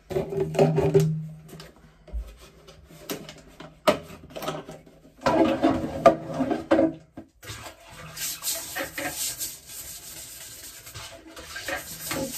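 Household cleaning: a cloth or brush rubbing and scrubbing on surfaces in irregular strokes, with a few knocks, then a steadier hiss in the second half.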